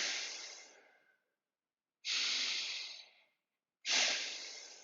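Slow, deep nasal breathing, the "proper breath" demonstrated before Ujjayi: separate soft, hissing breaths in and out, each about a second long, with short silences between them.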